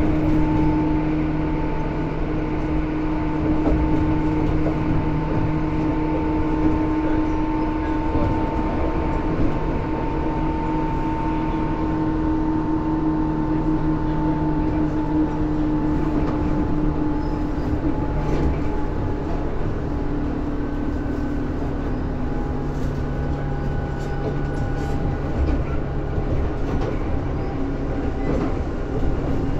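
Tobu 10000 series electric commuter train running, a steady rumble with several humming tones that sink slowly in pitch.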